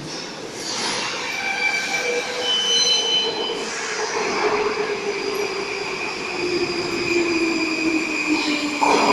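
Baltiets 81-725.1 metro train braking into a station. The whine of its traction drive falls slowly in pitch over a rumbling run of wheels on rail, with higher whining tones that jump from pitch to pitch and some wheel squeal. There is a sharp loud burst near the end.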